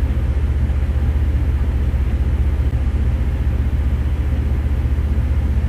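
Steady low drone of a running engine with a fast, even pulsing beat.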